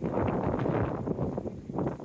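Strong gusting wind buffeting the microphone with a low rumble, rising and falling with the gusts and easing briefly near the end.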